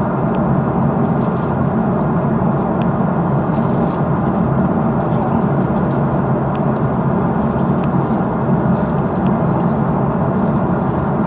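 Steady airliner cabin noise in flight: the even rush of engines and airflow, strongest in a low hum, with a few faint ticks.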